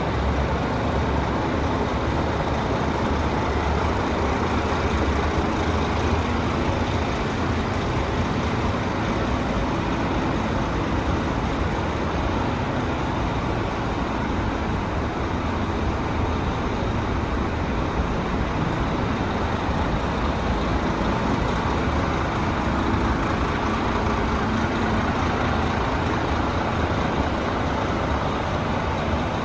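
Renault T460's 11-litre inline-six turbo diesel idling steadily.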